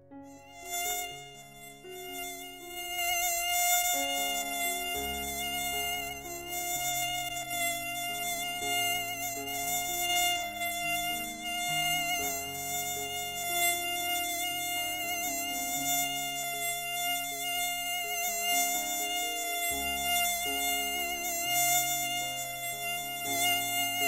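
Mosquito whining in flight: a steady, thin, high-pitched buzz from its wingbeats that swells and fades a little in loudness. It starts about half a second in.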